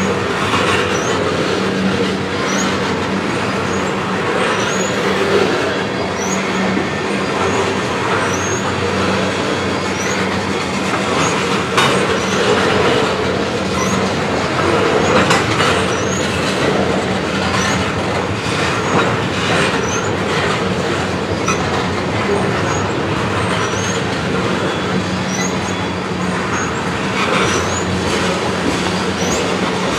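A long freight train of tank cars rolling past close by, a steady rumble of steel wheels on rail. A couple of sharper clanks come about midway, and short high squeaks recur about once a second.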